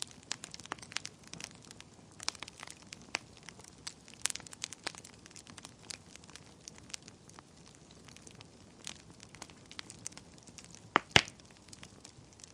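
Wood fire burning in a fireplace, crackling with irregular sharp pops over a soft hiss, with two loud pops close together about eleven seconds in.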